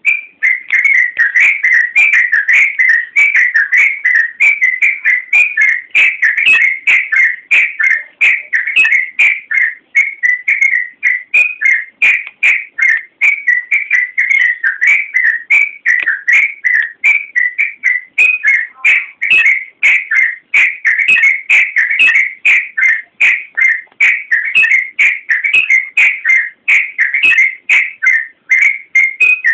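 Yellow-vented bulbul (trucukan) singing continuously, a fast, unbroken string of bubbly whistled notes that starts abruptly and keeps going without a pause.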